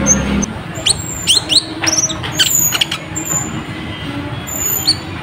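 Konin (kolibri ninja, a sunbird) singing a dense run of quick, high-pitched chirps and sweeping notes, with thin high whistles near the end. A low steady hum cuts off about half a second in.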